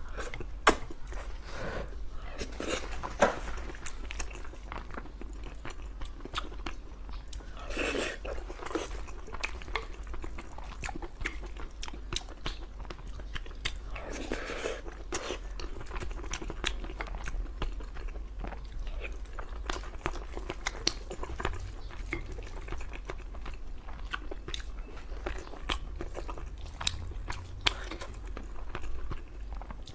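Close-up chewing and biting of braised pork and rice, with many small wet mouth clicks, over a steady low hum.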